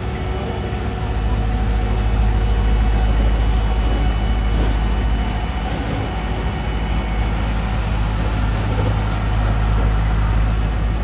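Heavy diesel engine of road-paving equipment running steadily with a deep, low hum.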